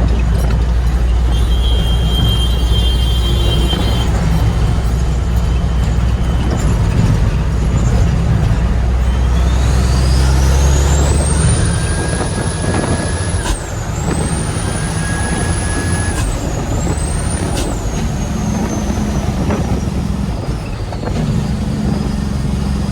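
Heavy diesel truck engine running under way with a steady low rumble. About nine seconds in a high whistle climbs steeply, drops sharply twice and climbs again, then slowly falls away.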